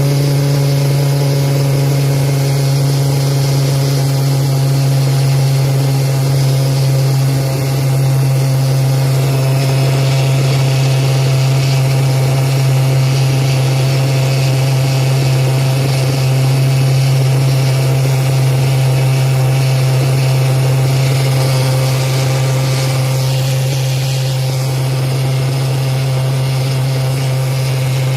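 Pulse jet engine running steadily, a loud unbroken drone at one low pitch with its overtones, running smoothly.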